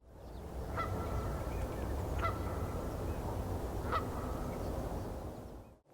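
A bird calls three times, about a second and a half apart. Each call starts sharply and then holds a short steady note, over a steady low rumble.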